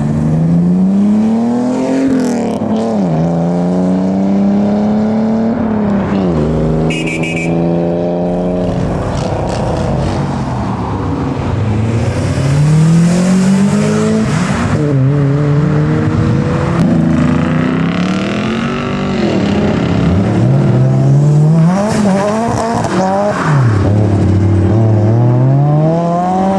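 Modified cars accelerating hard away, engines revving up through the gears: a series of rising pulls, each broken off by a sharp drop in pitch at the gear change.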